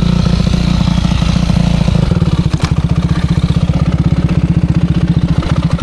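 Motocross bike engine running, falling to a slower, pulsing idle about two seconds in, then cutting out abruptly near the end: the engine stalls.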